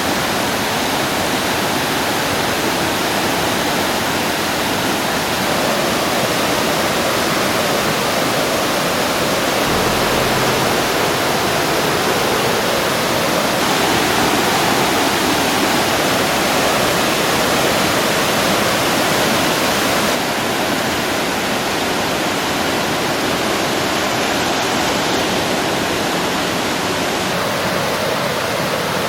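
A flood-swollen mountain river rushing as whitewater, a loud steady wash of water noise. Its character shifts slightly about 14 and 20 seconds in.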